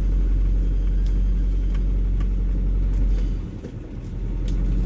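Cabin sound of a 1979 Toyota Corolla KE30's 1.2-litre engine under way, a steady low rumble that dips about three seconds in and builds again near the end. The engine runs smoothly and quietly, its conrod bearings freshly replaced and its oil pump fixed, with none of the earlier grinding.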